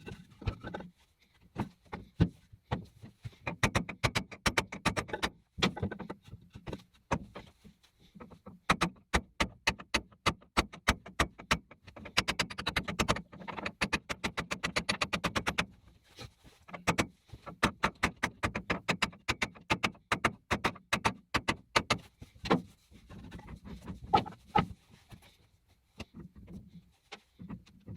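Sheldon lathe clicking and clattering, metal on metal, in quick runs at times over a low hum.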